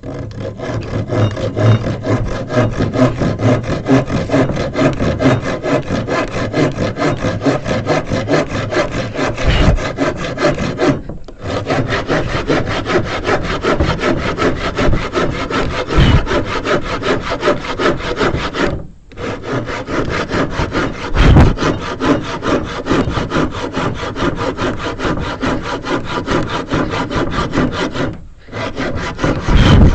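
Hand panel saw cutting through a wooden beam in fast back-and-forth strokes, with three short breaks in the sawing and a few dull thumps along the way.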